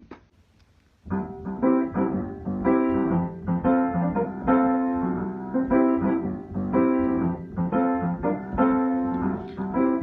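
Piano playing a slow introduction of chords, starting about a second in.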